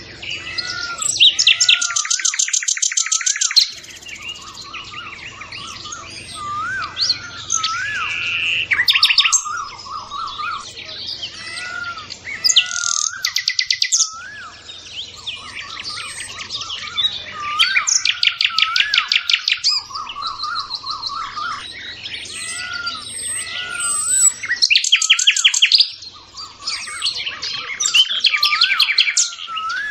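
Birdsong from several birds: rapid trills lasting a couple of seconds, repeated about every 4 to 6 seconds, over short looping whistled notes.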